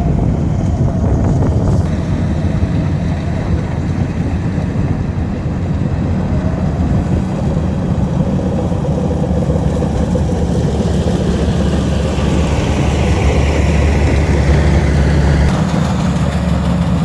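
Rice combine harvester's engine running steadily, with wind rumbling on the microphone.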